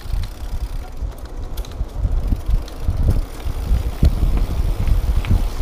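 Wind buffeting the microphone and a mountain bike rattling and thudding over a rough trail at downhill speed, the rumble starting abruptly.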